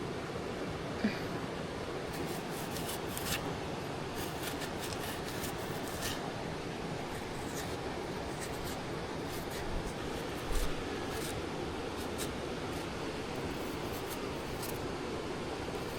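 Scattered light clicks and rubbing sounds over a steady background hiss, like objects being handled.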